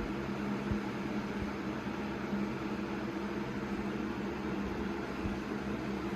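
Electric box fan running steadily on its medium speed: an even rush of moving air over a steady motor hum.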